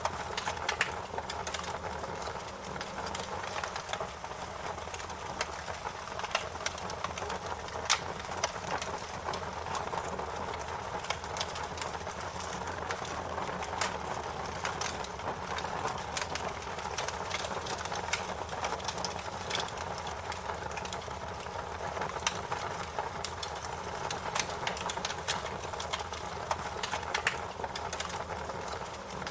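Wood fire crackling: a steady hiss with frequent, irregular sharp pops and snaps, a few of them louder than the rest.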